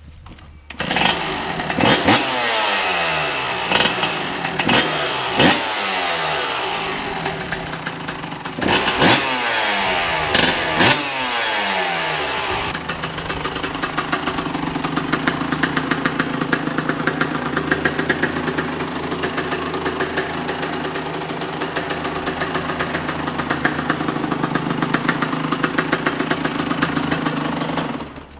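Kawasaki KX125 two-stroke dirt bike engine, just after an oil change, starting about a second in. It is blipped in sharp revs that drop back between them for roughly the first twelve seconds, then runs steadily at idle until it cuts off just before the end.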